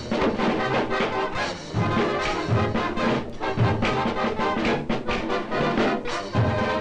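Early-1930s cartoon orchestra score with brass and trombone leading over a steady bouncing beat, punctuated by short percussive hits.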